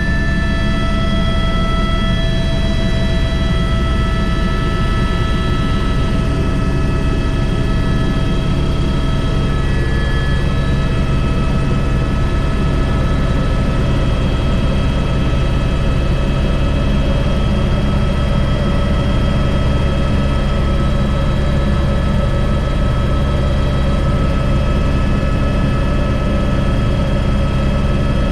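Airbus H125 (AS350 B3) helicopter running steadily in flight, heard from the cockpit: a constant low rotor and engine drone with several steady high whines from the turbine and transmission, whose pitches shift slightly partway through.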